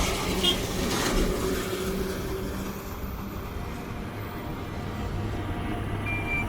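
Motor vehicle engine running steadily with road and traffic noise, with a couple of louder swells in the first two seconds.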